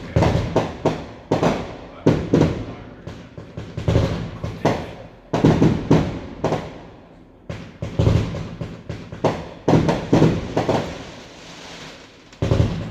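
Fireworks going off: many sharp bangs in quick succession, each dying away in a short echoing tail, coming in a few clusters with brief lulls between them.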